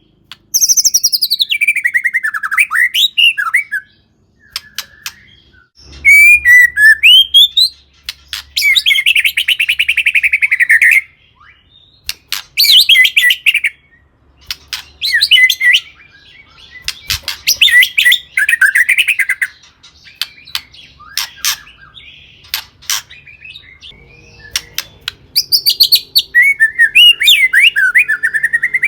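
White-rumped shama singing in loud, varied phrases: falling whistles, fast trills and sharp clicking notes, broken by short pauses.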